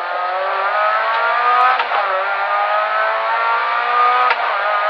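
Rally car engine at full throttle, heard from inside the cabin, its pitch climbing steadily through the gears, with an upshift about two seconds in and another about four seconds in.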